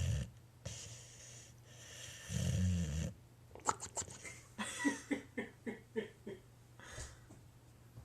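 Boxer dog snoring in its sleep: two deep snores, then a run of short, pitched puffs through the flapping lips, about three a second. The owner thinks this is the bark air starting to escape just before the dog barks in his sleep.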